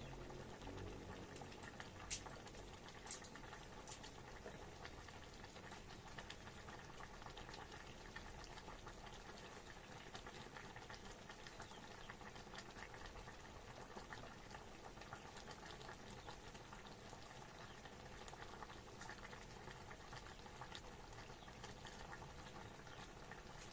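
A pot of food on the stove at a faint, steady boil, bubbling quietly, with a few light clicks in the first few seconds.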